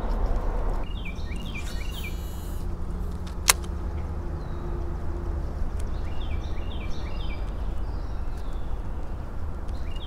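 A bird calling in two short runs of quick, falling chirps, over a steady low rumble. A single sharp click comes about three and a half seconds in.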